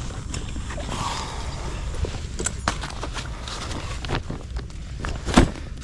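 Irregular knocks and clatter of fishing gear being handled and set down during setup, with one sharp knock near the end.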